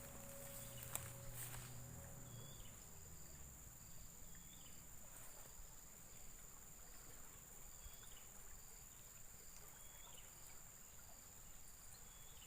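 Faint chorus of insects: a steady high-pitched drone, with a short call repeating about every two seconds. A low hum fades out about two seconds in.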